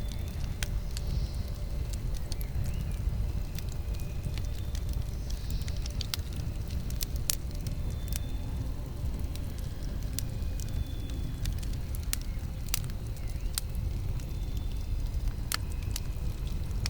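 Campfire burning: wood crackling, with irregular sharp pops over a steady low rumble.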